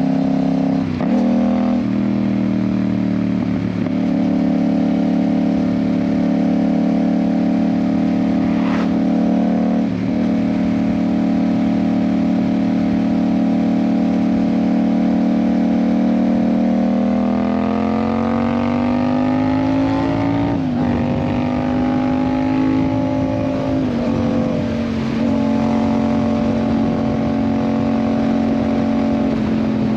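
Yamaha MT-07's 689 cc parallel-twin engine, through an aftermarket IXIL exhaust, running under way at a steady cruising pitch, with a brief dip about a second in. Past the halfway mark the note climbs steadily as the bike accelerates, then drops sharply twice at upshifts and settles into a steady run again.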